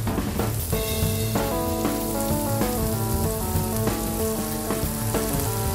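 Chopped leek sizzling in hot olive oil in a frying pan, a steady crackling hiss. A background music melody plays along from about a second in.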